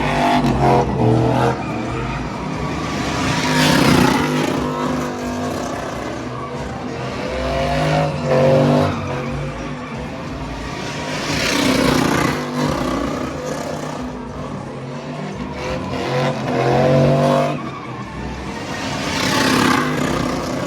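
Truck engines revving hard, rising in pitch in repeated bursts roughly every eight seconds, with spells of tire squeal in between.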